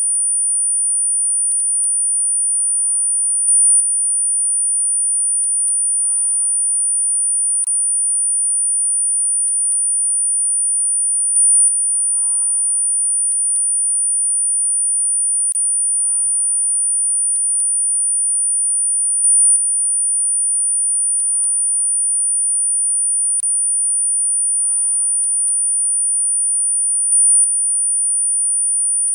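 A continuous, very high-pitched electronic tone holding one steady pitch, with faint clicks about every two seconds and soft, brief blips lower down every few seconds.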